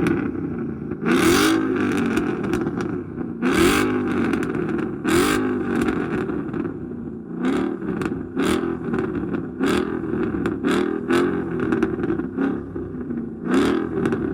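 2015 Ford Mustang GT's built 5.0-liter V8 revved over and over, each rev rising and falling. A few long revs come first, then quicker, shorter blips in the second half.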